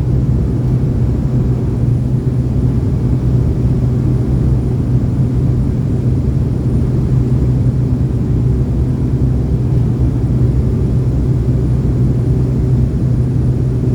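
Cessna 208 Grand Caravan's Pratt & Whitney PT6A turboprop engine and propeller running at takeoff power: a loud, steady drone with a low hum underneath.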